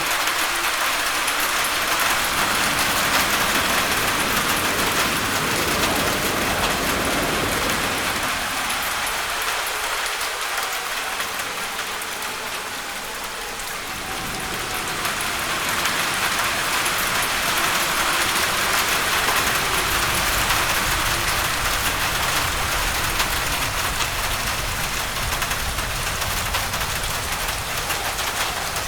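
Heavy rain falling on a roof, with wind: a steady dense hiss that eases a little around the middle and builds back up.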